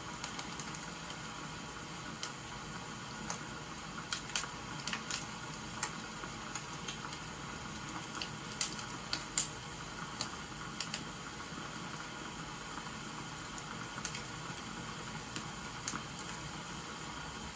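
Wood fire crackling with irregular sharp pops, over a steady hiss of rain.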